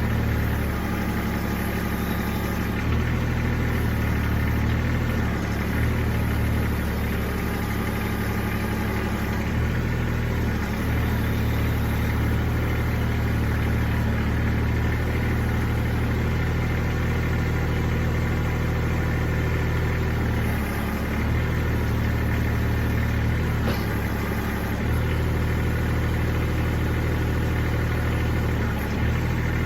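Kubota L-series tractor's diesel engine running steadily, its low note shifting slightly every few seconds.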